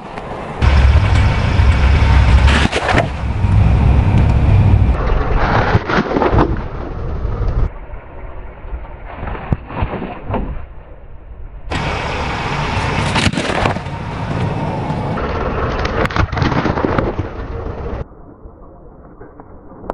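A car tyre rolling slowly over objects and crushing them, the vehicle's low rumble under a run of crunching and cracking. The rumble is heaviest in the first few seconds, and the crunching comes in several separate passes.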